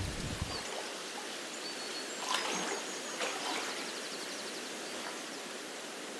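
Outdoor nature ambience: a steady, even hiss with faint, high bird chirps and a short, fast trill in the middle. A low rumble fades out under a second in.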